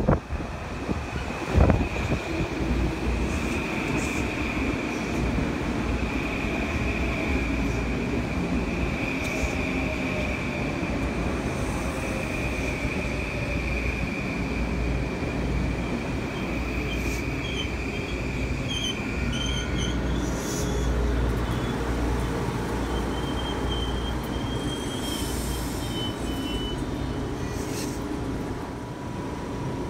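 Metro-North M8 electric train pulling into the platform with a steady high brake squeal over a low rumble; the squeal cuts off about two-thirds of the way through as the train comes to a halt, leaving the low hum of the train standing. A single sharp knock sounds about two seconds in.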